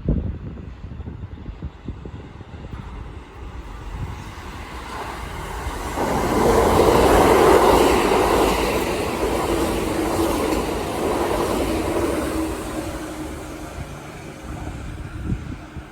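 Kintetsu 1422 series and 2610 series electric train going past. The noise swells, peaks a few seconds in, then fades away, with a steady hum in the later part.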